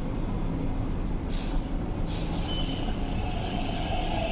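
MTR MLR electric train starting to pull away from the platform: two short hisses of air about a second and two seconds in as the brakes release, over a steady low rumble, then a traction-motor whine that comes in and grows near the end.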